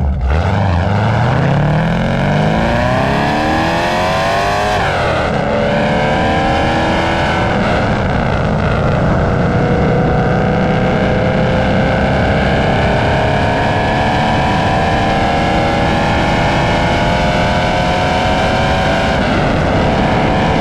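Loud exhaust of a C4 Corvette's 383 stroker small-block V8 pulling hard: the pitch climbs for about five seconds and drops at an upshift. It then settles into a steady, slowly rising drone at cruise and eases off near the end.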